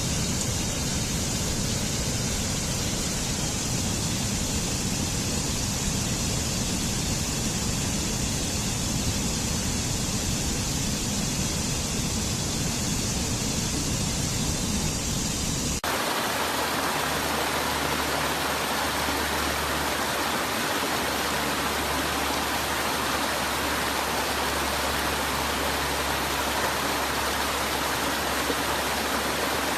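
Steady rushing roar of falling water from a waterfall. About halfway through it switches suddenly to a brighter, hissier water sound with less low rumble.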